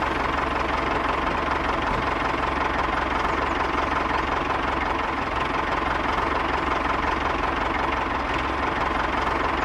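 Tractor engine running steadily at an even speed, with a thin steady whine above it.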